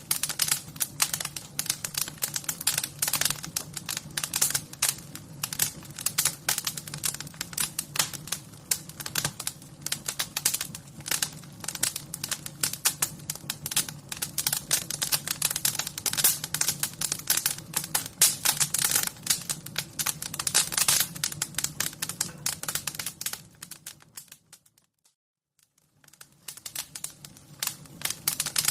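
Wood fire crackling: dense, irregular pops and snaps over a low steady rumble. Near the end it fades to near silence for about a second and a half, then fades back in.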